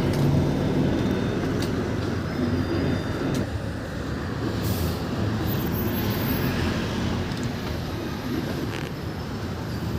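Steady rumble of road traffic and running vehicle engines in a congested city, with a short hiss about five seconds in.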